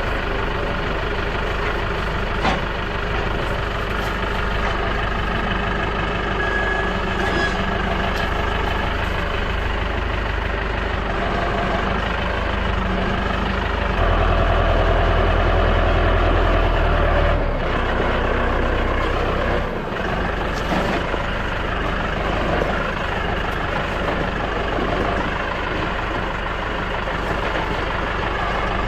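Tractor engine running steadily. It works harder and louder for a few seconds about halfway through.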